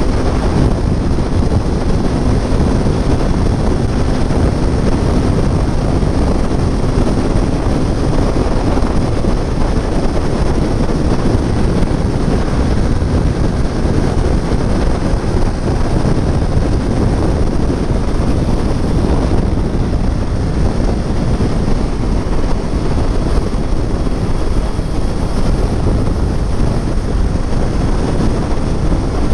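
Steady, heavy wind rush on the microphone of a Kawasaki Ninja 400 at highway speed, around 150 km/h, with the parallel-twin engine's drone beneath it.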